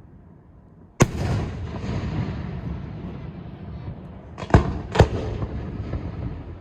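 Aerial fireworks shells bursting. A sharp bang comes about a second in, followed by a long rolling rumble; two more bangs come about half a second apart later on.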